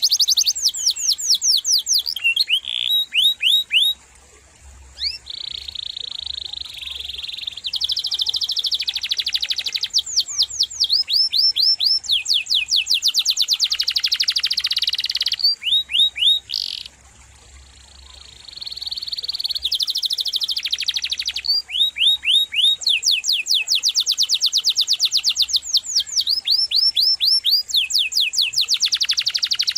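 A canary singing a long, loud song of rolling trills: runs of fast, evenly repeated high sweeping notes, with two brief pauses.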